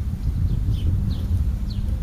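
Small songbird giving three short, high chirps, each falling in pitch, over a steady low rumble.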